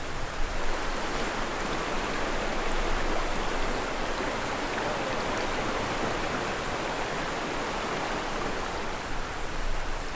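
Rushing creek water, a steady, even noise.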